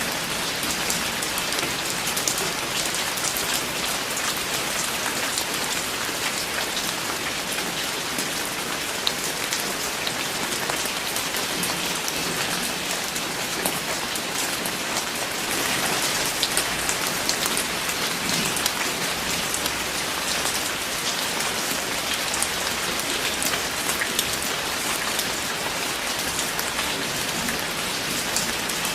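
Steady rainfall, a dense even hiss with many individual drops pattering on a surface.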